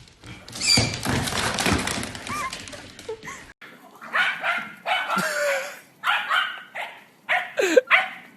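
A dog barking and whimpering in a string of short calls, some gliding in pitch, after about three seconds of noisy rustling that cuts off abruptly.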